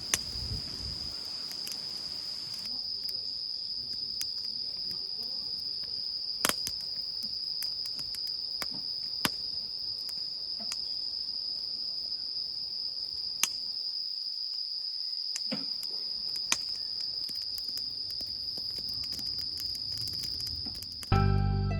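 Crickets chirping in a steady, unbroken high trill, with a few sharp pops every few seconds. Background music starts near the end.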